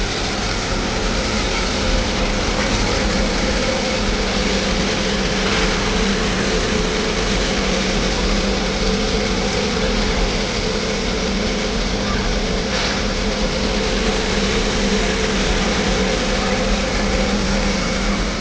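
Steady running noise of a moving steam train heard from on board, an even rush with a low hum underneath.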